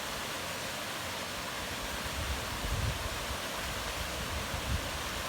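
Steady outdoor noise, an even rushing hiss, with a few brief low rumbles about halfway through and again near the end.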